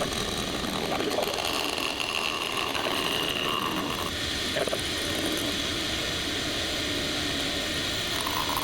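Metal lathe running steadily under a facing cut, a left-hand turning tool spinning in the chuck against the workpiece clamped in the tool post; a steady machine hum with a thin high whine over it.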